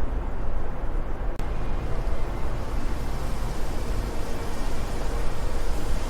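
Wind blowing steadily, a continuous rushing hiss over a heavy, fluttering low rumble; the hiss turns brighter after about two seconds.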